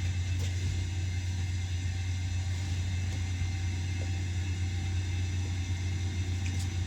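An idling vehicle engine: a steady low hum.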